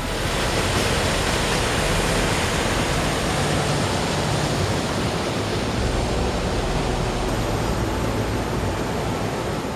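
The Bird River rushing past: a steady, dense wash of fast-flowing water.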